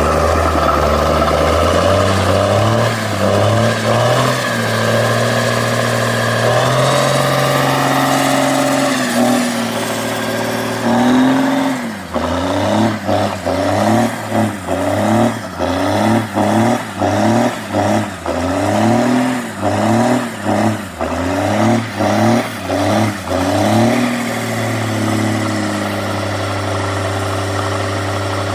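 Cummins diesel engine in a Ford truck running at steady, held revs that step up and down, then revved hard about a dozen times in quick succession, each rev rising and falling, before settling back to a steady run.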